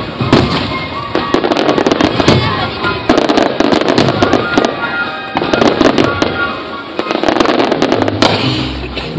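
Aerial fireworks shells bursting in a rapid, irregular run of bangs and crackles, over a musical soundtrack playing along with the show; the music's bass line comes forward near the end.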